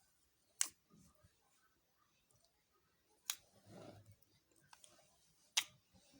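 Slime being handled: three sharp clicking pops, roughly two and a half seconds apart, with a softer squelch between the second and third.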